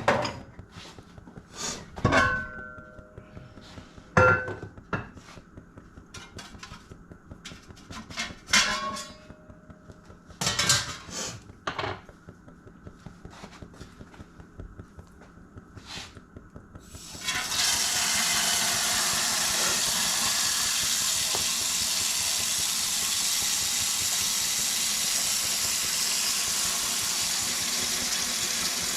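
Glass canning jars clinking and knocking as they are handled and set down, a dozen or so sharp strikes, some with a short ring. About 17 seconds in, water starts running steadily from a tap.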